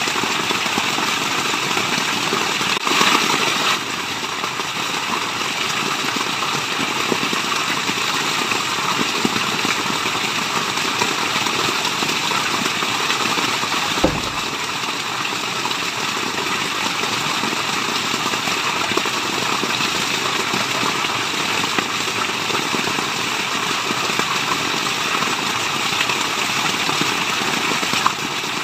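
Steady rush of a waterfall, an even hiss of falling water. It swells briefly about three seconds in, and there is a single low thump about halfway through.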